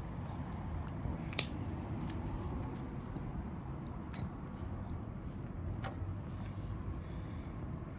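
Small wood fire burning in a micro stove, with a low rumble and a few sharp crackling pops; the loudest pop comes about a second and a half in.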